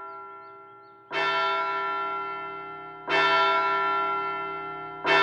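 A large bell tolling, one strike about every two seconds, each ringing out and slowly fading before the next, like a clock bell striking the hour to mark that it is late.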